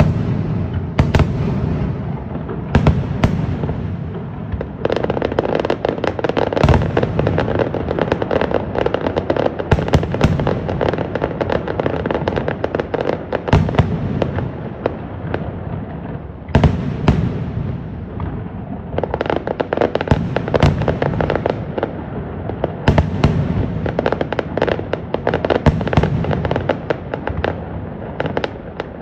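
Fireworks show: a dense, continuous barrage of aerial shells bursting, with many sharp cracks over a steady low rumble and louder clusters of reports every few seconds.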